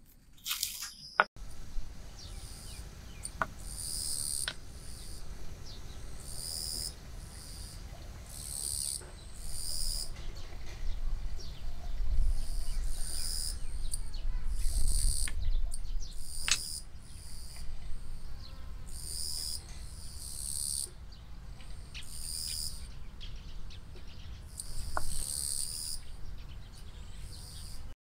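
A bird calling over and over in short high-pitched notes, one every second or two, over a steady low outdoor rumble, with a few light clicks.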